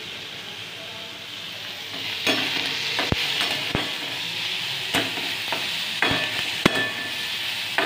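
Chopped tomato, onion and garlic sizzling in a steel kadai while a steel spatula stirs them, clinking and scraping against the pan. The sizzle grows louder about two seconds in, with a handful of sharp clinks from the spatula.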